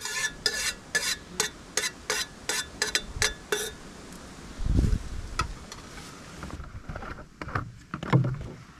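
A spoon stirring and scraping around a pot, about three strokes a second for the first three and a half seconds. Then a dull thump and a few scattered clinks of utensils.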